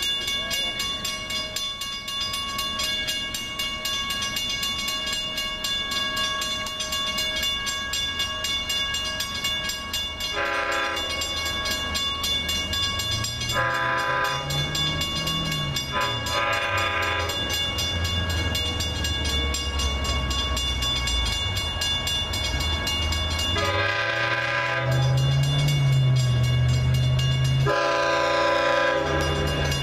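Diesel train approaching and sounding its multi-chime air horn in five separate blasts, each one to two seconds long, while its engine rumbles louder and rises in pitch. A steady high ringing runs underneath.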